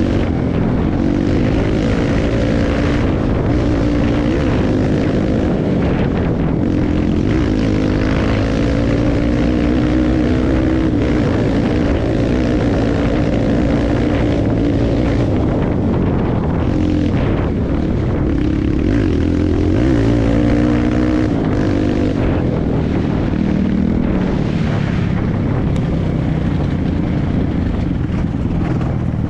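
Dirt bike engine running under load, its pitch rising and falling again and again as the throttle is worked along a trail.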